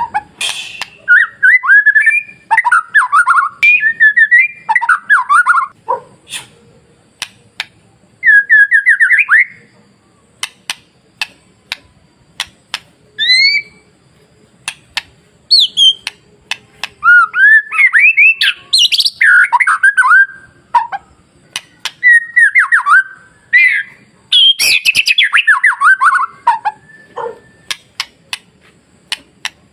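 White-rumped shama singing: bursts of rapid, varied whistled phrases that swoop up and down, broken by short pauses and sharp single clicks.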